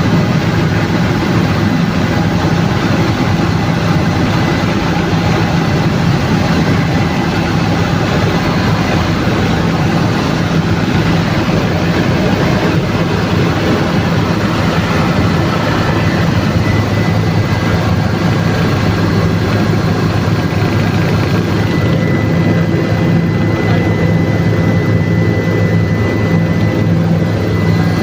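Helicopter turbine and rotor running steadily in flight, a loud even noise with a low hum; a thin high whine joins about three-quarters of the way through.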